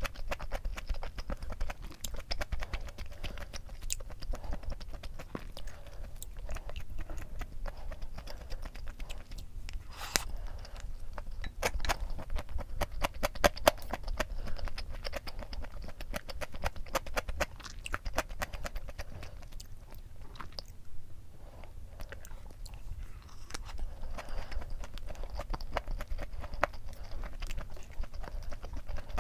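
Close-miked mukbang eating sounds: a person chewing mouthfuls of chicken-breast fried rice, a steady run of many small clicks.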